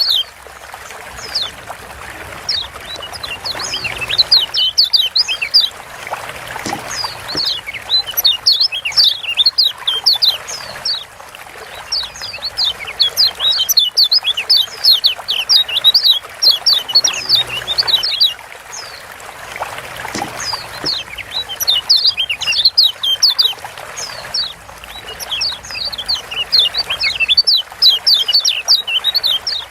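Kecial kuning (Lombok yellow white-eye) calling in fast runs of sharp, high, downward-slurred chirps, each run lasting a few seconds with short pauses between. A steady trickling hiss sits beneath.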